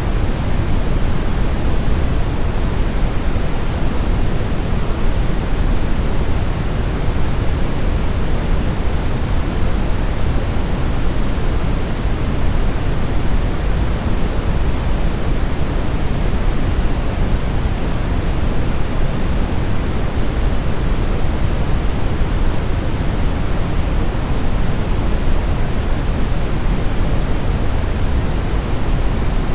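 Brown noise: a steady, even rushing hiss with its weight in the deep bass, rolling off toward the treble, unchanging throughout.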